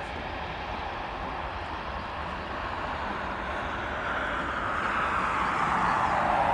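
Jet airliner's engines, a rushing noise that grows steadily louder as the aircraft comes closer.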